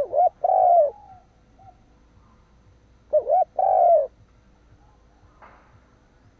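Spotted dove cooing: two call phrases about three seconds apart, each a pair of quick short notes followed by a longer note that falls at its end.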